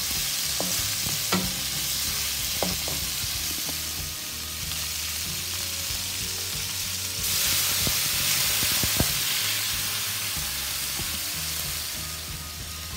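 Chicken pieces sizzling in butter in a non-stick wok, with a wooden spatula stirring and now and then tapping the pan. About seven seconds in the sizzle turns louder as vinegar goes into the hot pan and starts bubbling.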